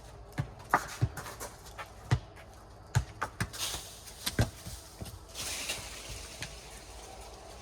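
Four square ball slapping on the court and off players' hands, a run of sharp smacks at uneven gaps through the first five seconds or so. A short breathy hiss comes between them, then the smacks die away.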